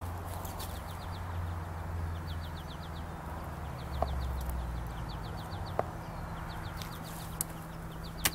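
A small bird calling in quick runs of four or five high chirps, repeated about every second, over a steady low hum. A few sharp clicks stand out, the first about four seconds in and the last near the end.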